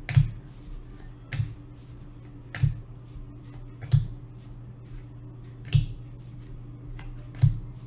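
Cardboard hockey trading cards being flicked one at a time as a pack is sorted: six sharp snaps, about one every second and a half, over a steady low hum.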